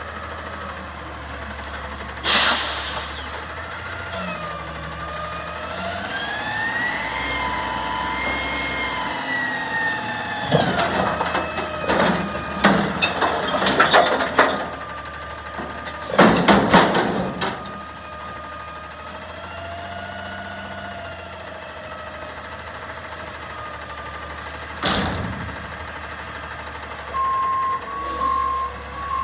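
Garbage truck at work: a sharp air-brake hiss, the engine revving up and down with a rising and falling whine, then a run of loud metal clanks and bangs, another air hiss, and reversing beeps starting near the end.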